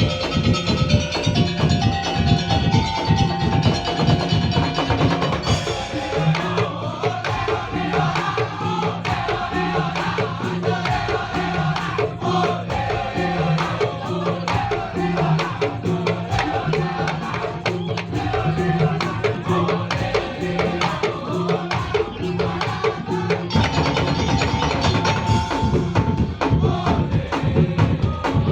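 Madurese ul-daul ensemble playing: a dense, fast beat of drums and wooden percussion under a melody line. About six seconds in, a wavering higher melody takes over and runs until near the end, when the first melody returns.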